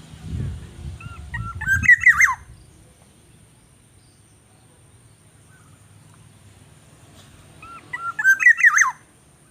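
A bird calls a short, quick phrase of chirpy up-and-down whistled notes twice, about six seconds apart, the same phrase each time. A low rumble runs under the first two seconds.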